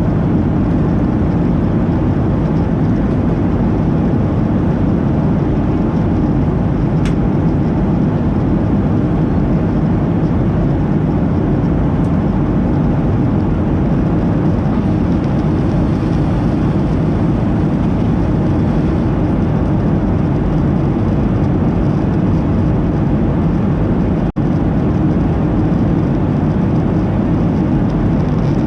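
Steady, loud cabin drone of a Boeing 737-800's engines and the air around it, heard from a seat near the rear of the cabin. The sound cuts out for an instant near the end.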